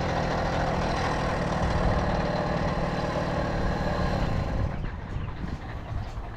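Tomos Silver Bullet moped's small two-stroke engine running steadily, then easing off to a quieter level about three-quarters of the way through.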